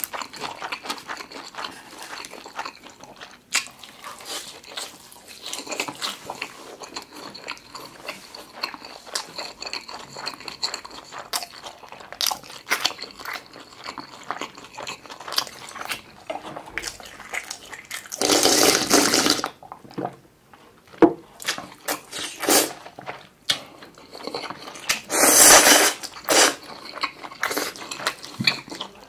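Close-miked chewing of a meat-filled jeon pancake, with many small wet mouth clicks and crackles. Two longer, louder slurps come about two-thirds of the way through and again near the end.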